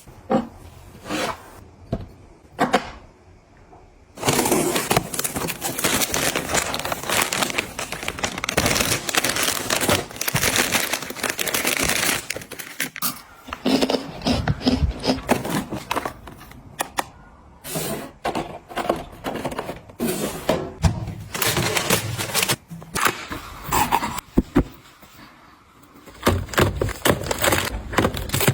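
Items being handled and arranged by hand: dense runs of clicking, clattering and crackling, with a few separate knocks early on and short pauses between.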